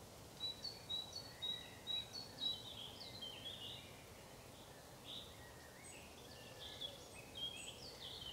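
Faint wild birdsong: short, high chirping notes in quick series, about two a second during the first three seconds, thinning out, then picking up again near the end, over a soft outdoor hiss.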